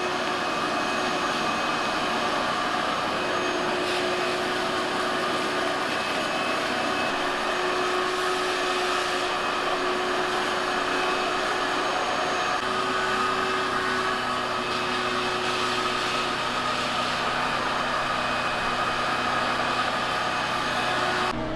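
A vacuum cleaner runs steadily with a continuous whir, then is switched off near the end, its motor winding down.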